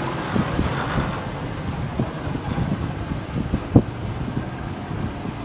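Wind buffeting the microphone: a gusty low rumble with scattered thumps, the hardest one about two-thirds of the way through.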